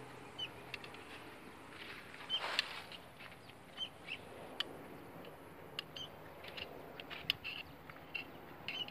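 Small birds chirping in short, repeated notes, with scattered light metallic clicks and a short scrape about two and a half seconds in as the final-drive hub and seal parts are worked into place by hand.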